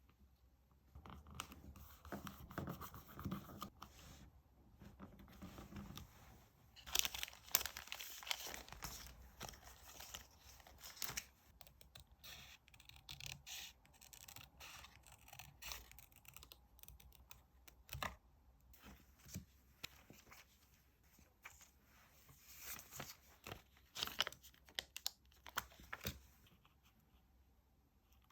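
Faint paper-crafting sounds of diary decorating: paper and sticker sheets rustling and being peeled, with small taps and clicks scattered throughout. The busiest rustling comes about a quarter of the way in and again near the end.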